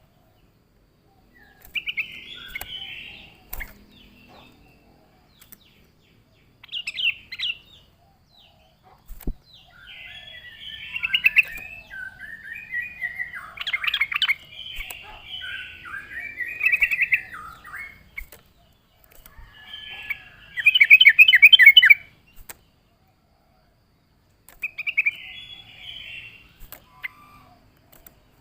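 Yellow-vented bulbul (trucuk) singing: short, bubbly, chattering phrases separated by pauses, with the loudest burst about three-quarters of the way through.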